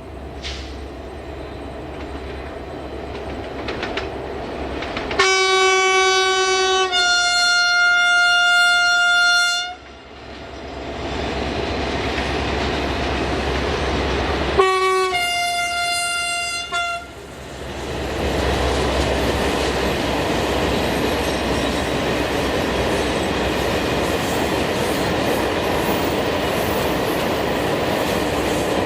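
A train sounds a two-note horn twice as it approaches: a long blast, a low note stepping up to a higher one, then a shorter blast in the same pattern. It then passes close by with loud, steady rumble and wheel noise on the rails.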